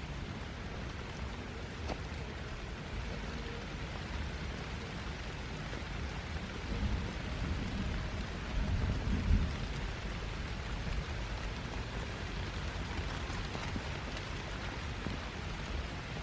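Steady heavy rain, an even hiss, with low rumbles swelling about seven and nine seconds in.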